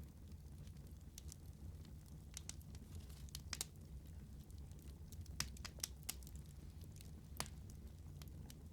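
Burning wood crackling: scattered sharp pops and snaps over a low steady rumble, with the loudest pop about five and a half seconds in.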